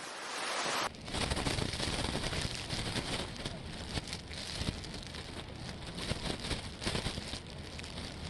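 Storm noise: wind buffeting the microphone, with rain crackling. About a second in it cuts from a brighter rush of wind to a lower rumble full of crackles.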